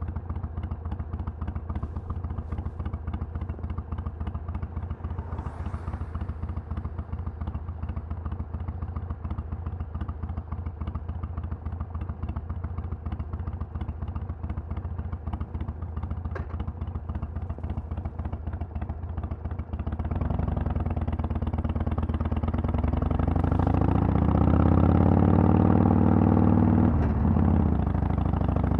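Harley-Davidson Sportster 883's air-cooled V-twin through a Vance & Hines Twin Slash exhaust, running steadily at low revs. About twenty seconds in it gets louder and the revs climb for several seconds, with a brief dip near the end like a gear change.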